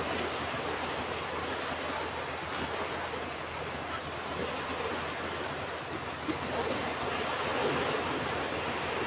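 Ocean waves breaking and washing on a beach: a steady, even surf noise that swells a little about two-thirds of the way in.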